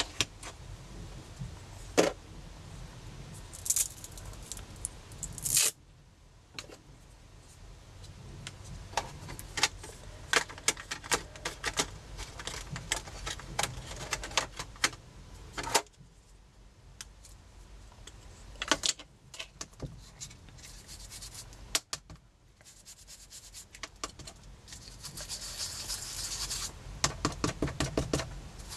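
Scattered clicks, taps and light scraping of craft tools and supplies being handled on a work surface, with a stretch of rubbing and quick tapping near the end.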